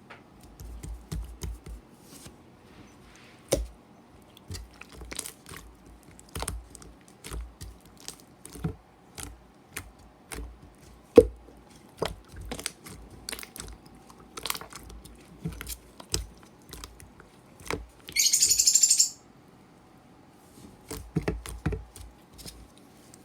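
Irregular close taps, clicks and rattles, a few every second, with one sharp click about eleven seconds in. A hiss lasting about a second comes near the end.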